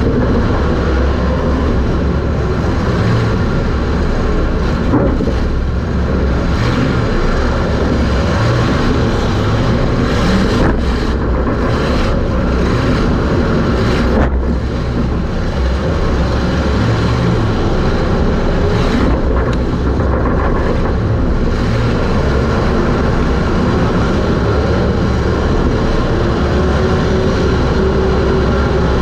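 Super stock race car's engine running loud and steady at racing speed, heard from inside the car.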